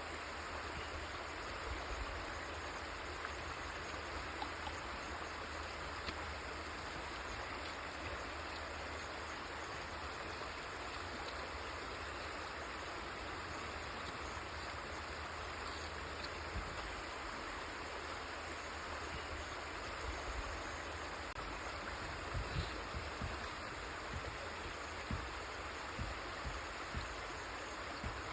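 River water flowing and rushing steadily, with a few short low thumps in the last several seconds.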